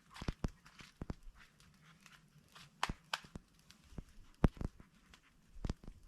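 Irregular sharp clicks and knocks mixed with brief rustling, the loudest knock about four and a half seconds in.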